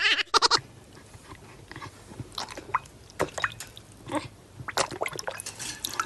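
A dog lapping and mouthing at water in a bowl: a quiet, irregular run of short wet clicks, slurps and drips. A brief loud noise sounds at the very start.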